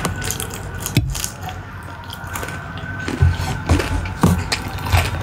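Close-miked ASMR eating sounds: a person biting and chewing a sauce-coated bite of spicy food, with wet mouth clicks and smacks. One sharp click comes about a second in, and a run of louder smacks and clicks in the last two seconds.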